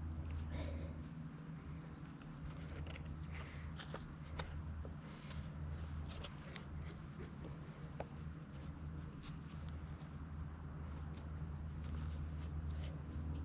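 Steady low engine hum, with scattered light clicks and scratchy rustling of cargo straps being pulled and tightened over a stack of slabs.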